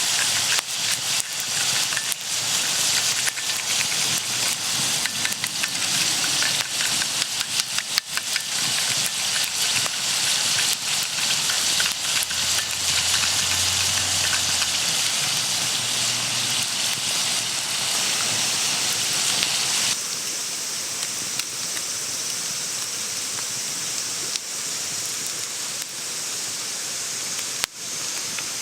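Food sizzling and crackling in hot oil in a pan, a dense spitting hiss. About two-thirds of the way through it changes suddenly to a quieter, thinner steady sizzle with fewer pops.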